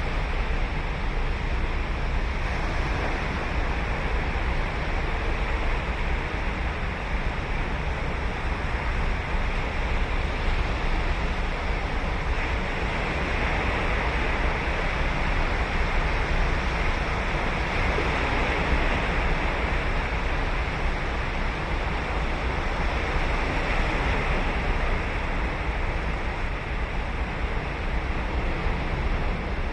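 Ocean surf breaking and washing on a sandy beach, a continuous rushing wash with a deep rumble that swells and eases as waves come in, fuller in the middle.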